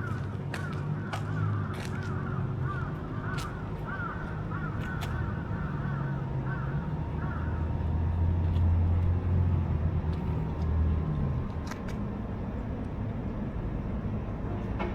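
Street traffic with a low engine rumble that swells as a vehicle passes about two-thirds of the way in. A rapid string of short chirps runs through the first half and starts again near the end.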